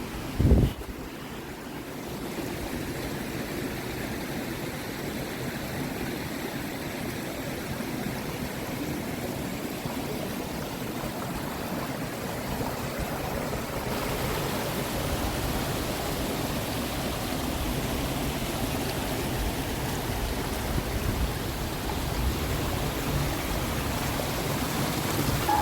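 Steady rush of a flowing stream. A brief low thump of wind on the microphone comes about half a second in.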